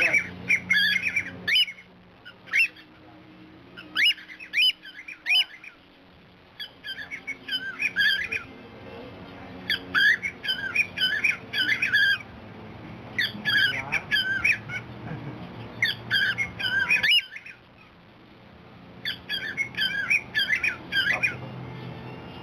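Pet cockatiel chattering in repeated bursts of short, squawky chirps, with pauses of a second or two between bursts.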